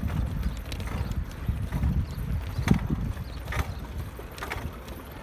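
Bicycle rolling over rough ground, with a low rumble and scattered knocks and rattles, the loudest near the middle.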